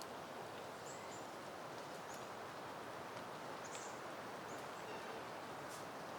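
Steady wind rustling through flowering plants, with a few short high chirps scattered through it.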